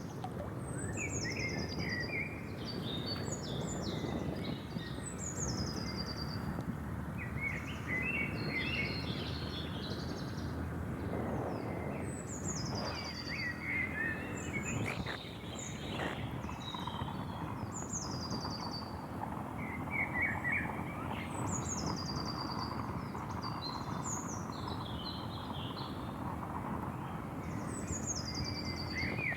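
Wild birds singing against a steady low background noise. One bird repeats a high, short downward-sliding phrase every four to six seconds, and other birds add scattered chirps between the phrases.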